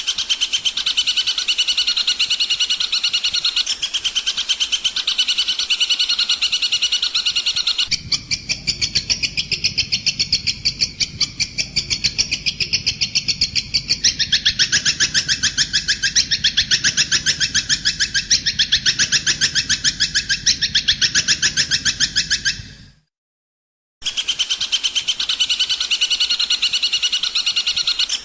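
Songbird song from a master recording, a fast run of rapidly repeated high chirping notes. About eight seconds in it switches to a different song with a low rumble underneath, which breaks off for a moment near the end before the first song comes back.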